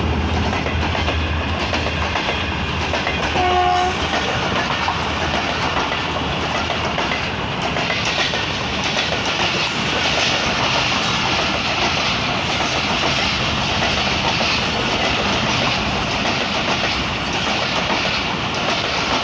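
Passenger train running through the station at speed behind a ZCU-30 diesel-electric locomotive: the locomotive's engine drone fades over the first couple of seconds, with a short horn blast about three and a half seconds in. Then the coaches roll past with steady wheel clatter on the rails.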